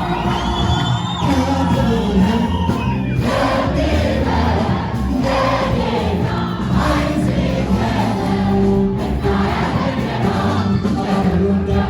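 Amharic gospel hymn (mezmur): a choir or congregation singing together over steady musical backing.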